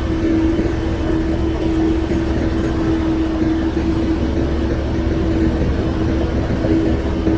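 Shantui bulldozer's diesel engine running steadily: a low rumble with a steady whining hum over it.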